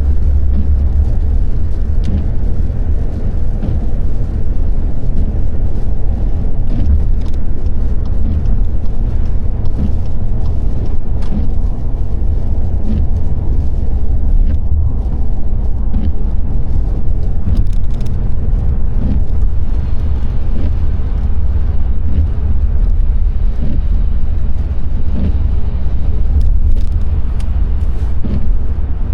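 Car driving on a wet road, heard from inside: a steady low rumble of road and engine noise, with scattered faint ticks over it.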